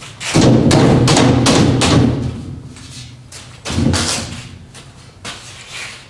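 Wooden framing knocked and thumped into place during a test fit: a quick run of heavy knocks over the first two seconds, another thud about four seconds in, and a couple of lighter knocks near the end.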